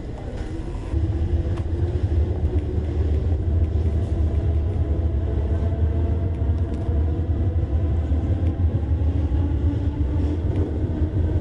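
Train running, a steady low rumble with faint held tones above it, starting about a second in.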